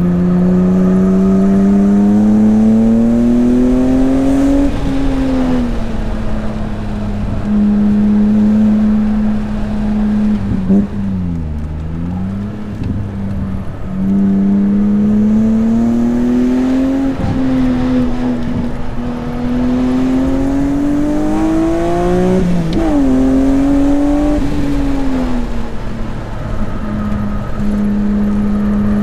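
BMW E36 M3's swapped-in S54 inline-six pulling hard under load, its note climbing in pitch three times and dropping sharply in between. There is a deeper dip about eleven seconds in where it slows for a corner, heard from inside the car.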